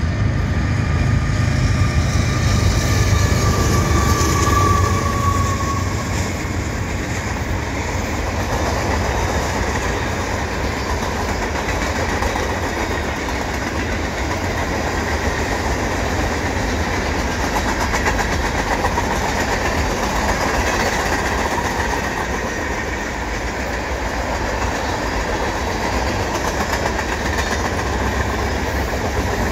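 Long mixed freight train passing at speed, its steel wheels rumbling and clattering steadily over the rails. It is loudest in the first few seconds, where a high tone fades out about five seconds in.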